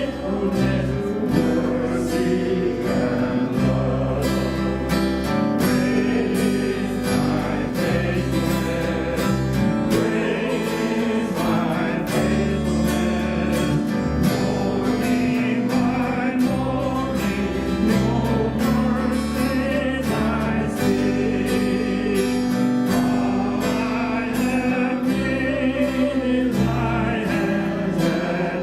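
Church worship music: acoustic guitar and bass accompanying singing voices in a steady, sustained hymn-like song.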